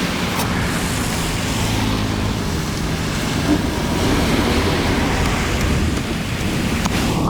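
Floodwater rushing steadily as it drains.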